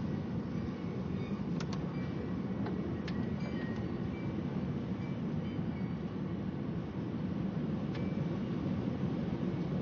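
Strong storm wind making a steady low rumble, with a few faint ticks in the first few seconds.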